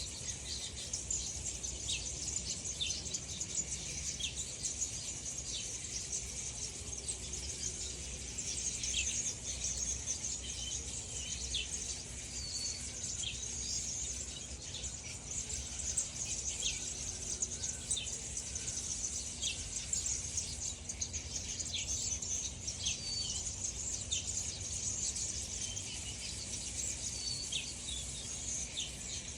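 Birds chirping and calling in short, frequent notes over a steady high-pitched insect buzz, with a low background rumble.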